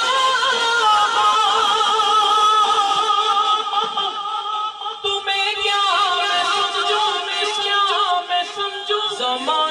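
Male voice singing a naat in long, ornamented melodic phrases, with a brief break about five seconds in and a steady held tone beneath the voice.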